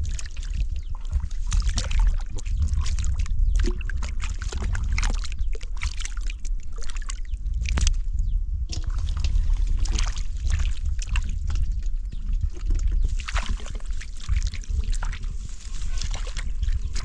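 Water sloshing and splashing irregularly as hands work in shallow flowing water, over a steady low rumble.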